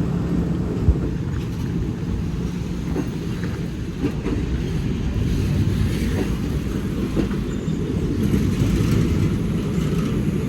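A passenger train rolling along with a steady low rumble of wheels on the rails, and a few short clicks from the track along the way.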